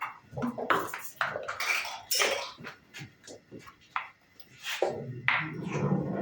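Backgammon dice and checkers clicking and clacking on the wooden board in a quick, irregular series of knocks as play begins.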